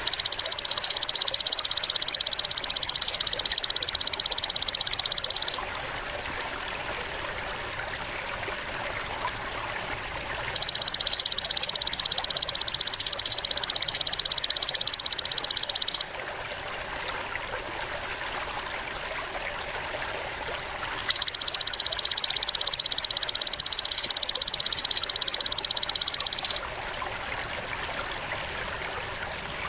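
A belalang emas insect trilling in three long bursts of about five seconds each, a dense high-pitched buzz made of very fast pulses, separated by gaps of a few seconds. A trickling stream runs underneath throughout.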